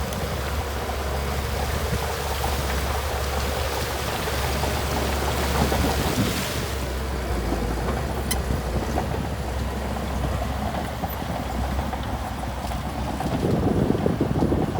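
Diesel engine of heavy earthmoving machinery running steadily with a low rumble, growing louder near the end.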